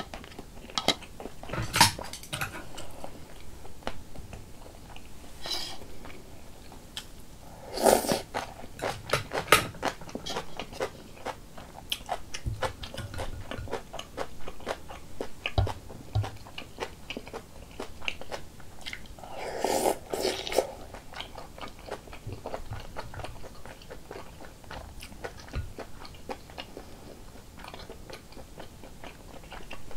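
Close-miked eating of rice cake soup: chewing with many small wet mouth clicks, and two louder, longer sounds about 8 and 20 seconds in.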